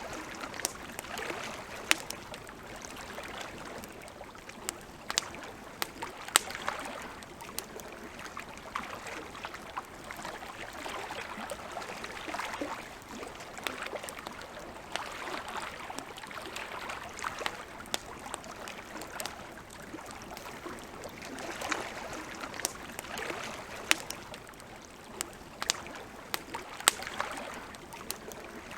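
Wood campfire crackling, with sharp irregular pops and snaps over a soft rushing that swells and fades every few seconds.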